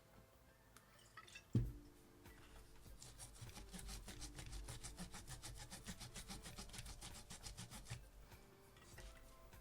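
A single knock, then rapid back-and-forth scrubbing or rubbing strokes, about six or seven a second, for about five seconds before they stop.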